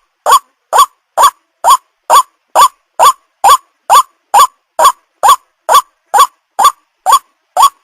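White-breasted waterhen (ruak-ruak) calling over and over, short loud notes about two a second in an even, unbroken rhythm.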